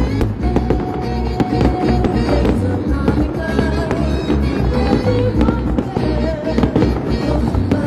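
Fireworks bursting repeatedly, with many sharp bangs over loud music playing throughout.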